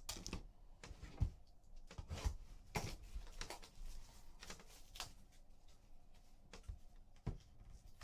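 Trading cards and their plastic holders being handled: scattered light taps, clicks and rustles, spaced irregularly about a second apart.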